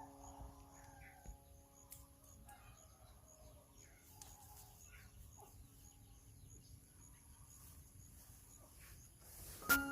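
Faint outdoor ambience with a few scattered bird calls and a steady high whine, under a lingering music chord that slowly fades out; music starts again at the very end.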